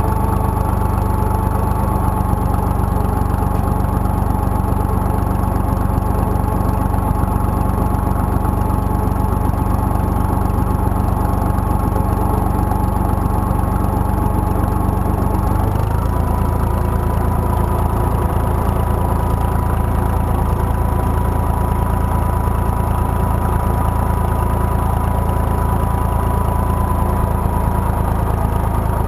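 IMT 2050 tractor's diesel engine running steadily, its pitch stepping up slightly a little past halfway.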